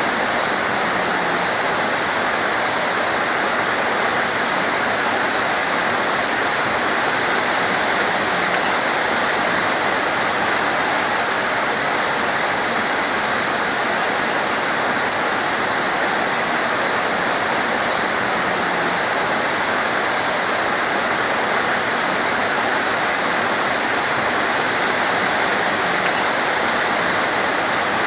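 Heavy torrential rain falling steadily, a dense, even hiss with no letup. One faint click comes about halfway through.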